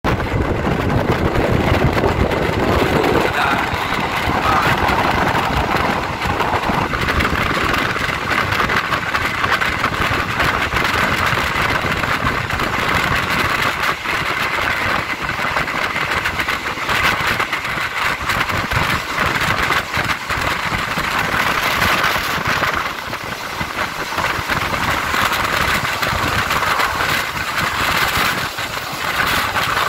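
Passenger train running along the track, heard at an open carriage window: a steady noise of wheels on rails and air rushing past.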